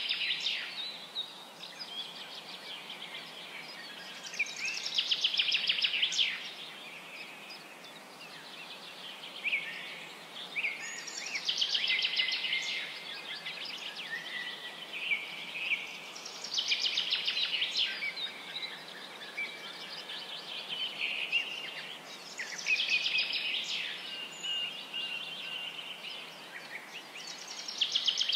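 Songbird singing: bouts of rapid, trilled chirping recur every five to six seconds, with quieter single notes between them over a steady faint hiss.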